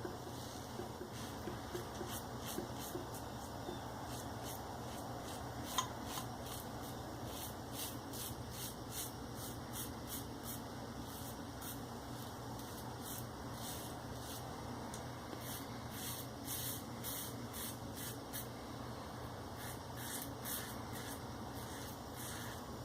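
Maggard V3A safety razor with a Shark Super Chrome blade scraping through lathered beard stubble in a run of short, repeated strokes, cutting smoothly without pulling or tugging. One sharp click about six seconds in.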